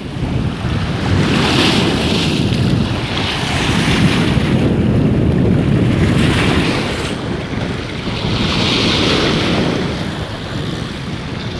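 Sea waves washing against the rock breakwater, with heavy wind rumbling on the microphone; the noise swells and eases every few seconds.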